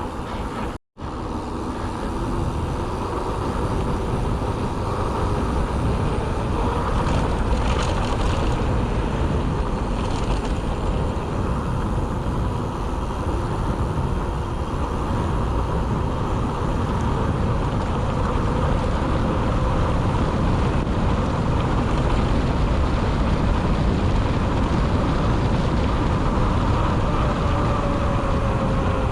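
Steady rush of wind on the microphone with tyre rumble from a mountain bike rolling along a road, heaviest in the low end. The sound drops out completely for a moment about a second in.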